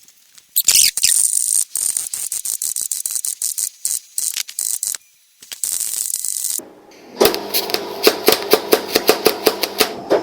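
Arc welding onto a broken stud in a flathead Ford V8 block: the arc crackles and hisses in two bursts, the second one short. After the second burst a motor hums steadily with sharp ticks about four times a second.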